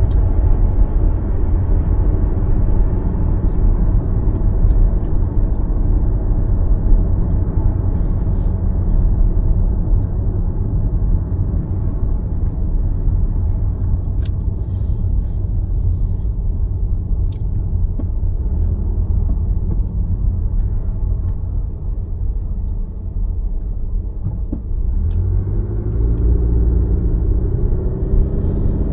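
Steady low rumble of a car driving on city roads, road and tyre noise with the engine underneath. Near the end a steady pitched hum joins in.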